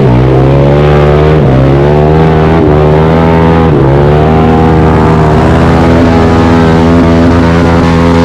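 Pit bike engine running hard at high revs. Its pitch dips briefly about four times in the first four seconds, as the throttle is chopped or a gear is shifted, then holds steady and climbs a little.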